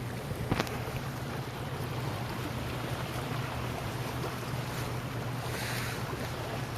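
Steady rushing noise of rain-fed water and wind buffeting the microphone, over a steady low hum. A single click comes about half a second in.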